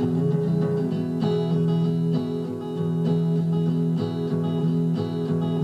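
Acoustic guitar strummed in a steady rhythm, played as an instrumental break between sung verses.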